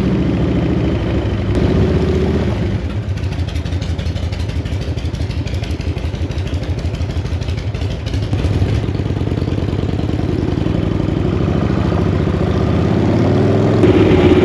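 Harley-Davidson chopper's V-twin engine running under way on reserve fuel, running smoothly after spluttering on an almost dry tank. It eases off a few seconds in and picks up again in the second half.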